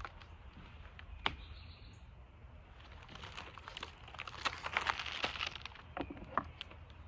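Small birds chirping outdoors, mixed with scattered short clicks and rustles. There is one sharp click about a second in and a busy flurry of short sounds a little past the middle.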